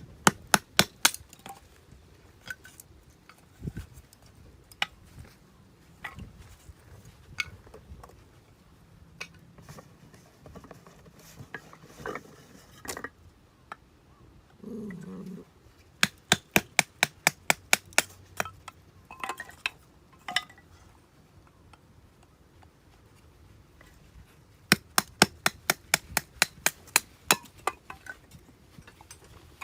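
Sharp metallic strikes in quick runs of about five to ten blows, roughly four a second, with pauses of several seconds between the runs, like steel being hammered.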